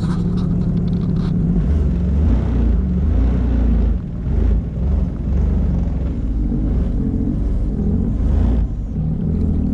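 Jet ski engine running with a low rumble, its level shifting as the throttle is worked. It swells about a second and a half in and drops briefly a few times later.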